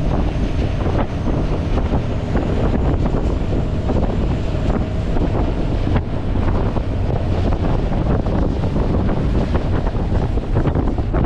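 Heavy wind buffeting the microphone over rushing water, as from a fast fishing boat running at speed. The sound holds steady throughout.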